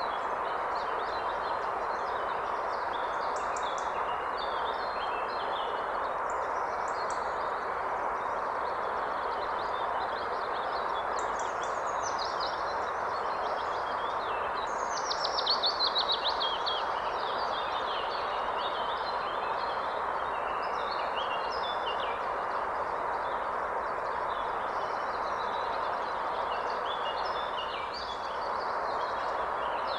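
Forest stream flowing with a steady rushing sound, with several songbirds singing and calling over it; about halfway a louder, fast series of bird notes stands out.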